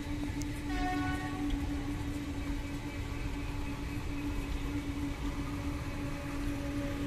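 Passenger train coaches rolling past slowly with a steady low rumble and a constant hum. A short train horn sounds about a second in.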